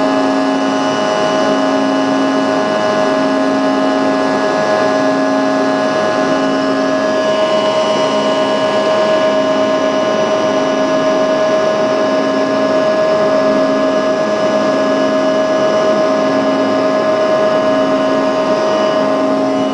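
Jet airliner engines running at high power during takeoff and climb: a loud, steady whine with many held tones, and a low hum that pulses on and off roughly every second and a half.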